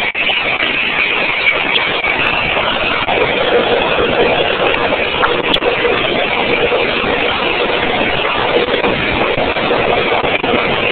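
Electric motor driving a compressor, running steadily. The motor–compressor set is misaligned. A faint steady tone comes in about three seconds in, over the even running noise.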